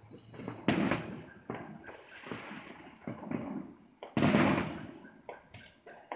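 Neighborhood fireworks and firecrackers going off in an irregular series of bangs, each trailing off. The two loudest bangs come about two-thirds of a second in and about four seconds in.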